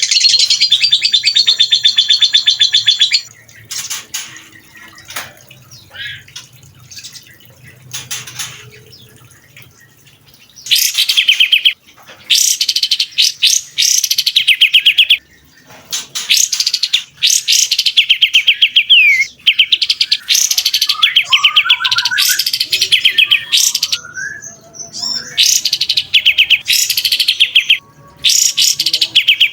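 A songbird singing rapid, dense high trills: the fast 'shooting' bursts (tembakan) of a competition songbird. A long trill opens, a few seconds of softer scattered chirps follow, then a string of loud trill bursts a second or two each, with short gaps between.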